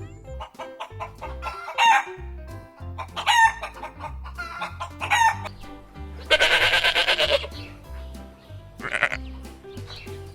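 Donkey braying in a series of harsh calls, the longest and loudest about six to seven seconds in, over background music with a steady bass line.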